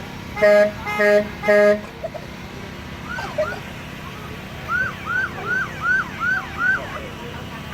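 A truck horn honks three short times, then an electronic siren gives a run of about six quick rising-and-falling yelps.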